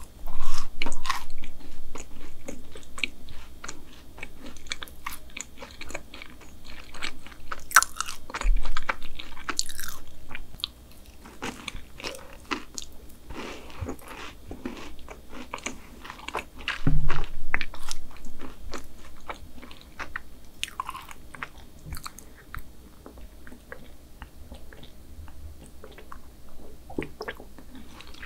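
Close-miked chewing and biting of a double chocolate chip brownie topped with black sesame ice cream: a steady run of small wet mouth sounds and clicks, louder in bouts about half a second in, around eight seconds and around seventeen seconds.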